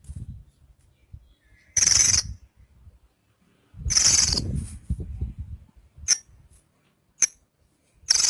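Javan bush lark (branjangan) singing in short loud bursts: three phrases of half a second to a second each, with two brief sharp chirps between them.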